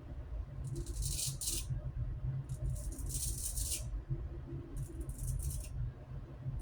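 Razor strokes scraping through lathered stubble: three scratchy passes of about a second each, with pauses between them.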